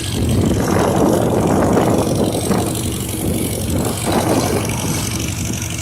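1951 Farmall H tractor's four-cylinder engine running steadily on the road, with a rushing noise swelling up about half a second in and again around four seconds.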